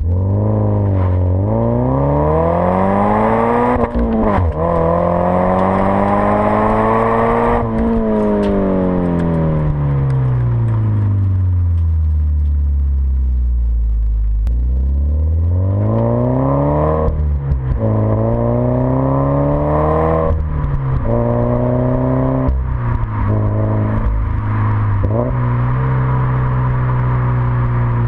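Scion FR-S / Subaru BRZ 2.0-litre flat-four running through a Hooker Blackheart axle-back exhaust under way. Revs climb and drop sharply at upshifts, fall away slowly as the car slows, then climb again through several more quick upshifts before settling to a steady cruise.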